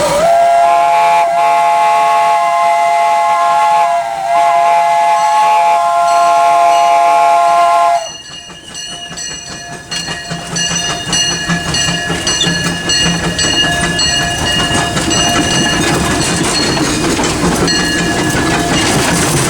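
Steam locomotive whistle blown from the cab in one long blast of about eight seconds, wavering briefly twice. After it stops, the locomotive runs on with rapid, even clicking and faint high ringing tones.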